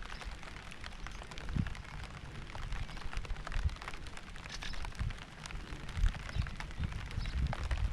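Steady rain falling, with many separate drops ticking sharply close by and irregular low thuds underneath.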